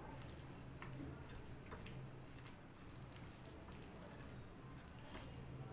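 Faint wet eating sounds: scattered small clicks and squishes of chewing rice and dal, over a steady low hum.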